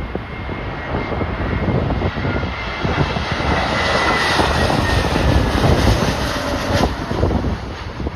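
Jet airliner passing low on approach to land: its engine noise swells to a peak around the middle, and a high engine whine falls slowly in pitch as it goes by. Gusty wind buffets the microphone.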